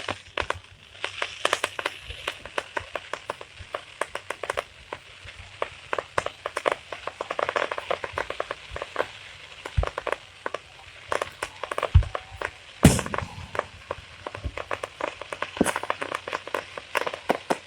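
Fireworks crackling with a dense, irregular run of sharp pops and snaps, broken by two louder booms about twelve and thirteen seconds in.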